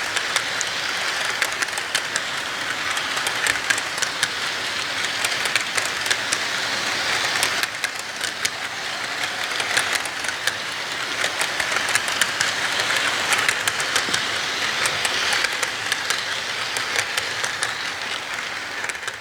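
Train wheels running over track: a steady rushing noise with many quick, irregular clicks.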